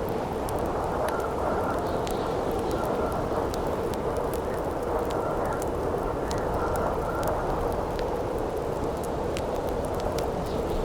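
Campfire crackling, with scattered sharp pops and snaps, over a steady rushing winter wind.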